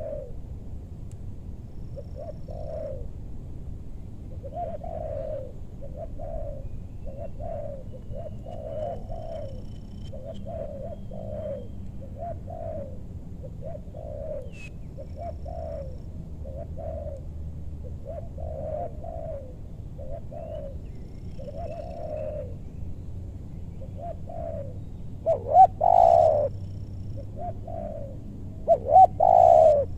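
Spotted doves (tekukur) cooing, a steady run of short repeated coo notes, with two much louder, closer coo phrases near the end.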